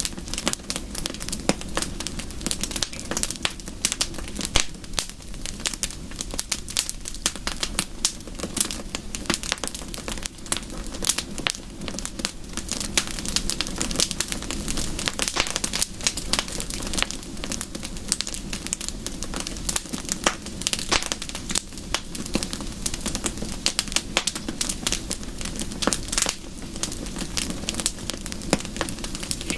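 Wood fire crackling: dense, irregular pops and snaps over a steady low rush, with no pause.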